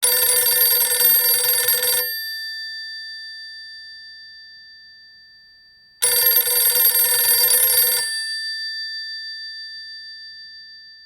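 Electromechanical telephone bell ringing twice, each ring about two seconds long with the second starting about six seconds in, the bell tones ringing on and fading after each ring stops. This is the standard two-seconds-on, four-seconds-off ring cadence of an incoming call.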